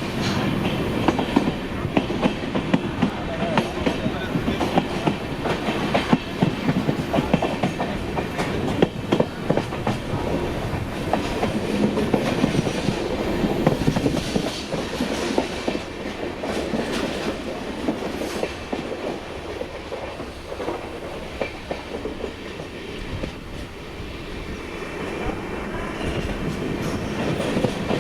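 Train wheels clattering over rail joints: a steady rolling rumble with dense, irregular clicks. It eases a little past the middle and grows louder again near the end.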